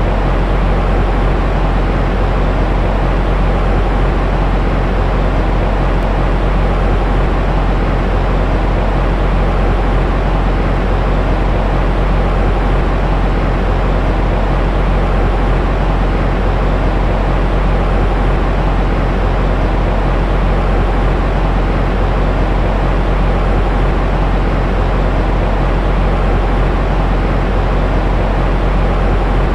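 Continuous, unchanging white noise for baby sleep, weighted toward the low end so it comes across as a deep, even rush with a faint steady hum in it.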